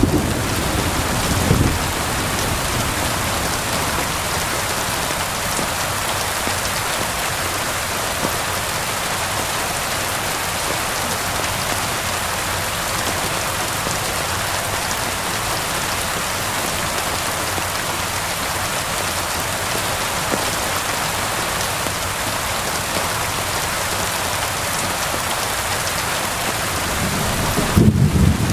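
Steady rain falling. A low rumble of thunder dies away in the first couple of seconds, and another, louder one rolls in near the end.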